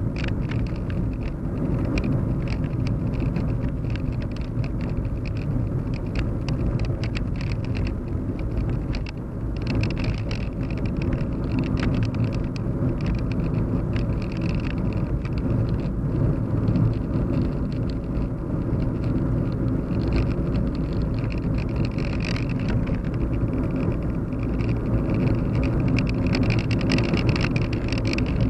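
Steady low hum of a car driving, heard from inside the cabin: engine and road rumble with scattered faint ticks.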